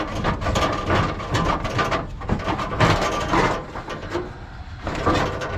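Scrap metal clanking, knocking and scraping as pieces are dragged and thrown off a truck, with a brief metallic squeal in the first second and again near the end.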